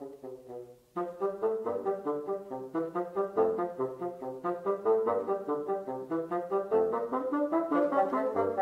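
Classical bassoon music playing a quick run of short notes, fading almost out just before a second in and then picking up again abruptly.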